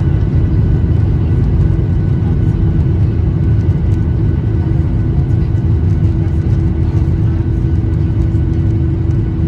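Boeing 737-800's CFM56 jet engines running, heard inside the cabin as a loud, steady rumble with a constant hum over it.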